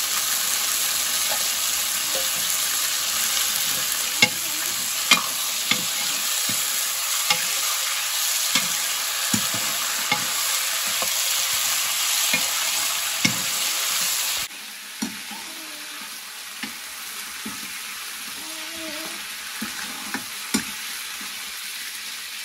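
Sliced potatoes sizzling in oil in an aluminium wok, with a metal spoon stirring and knocking against the pan every second or so. The sizzle drops noticeably quieter about two-thirds of the way through.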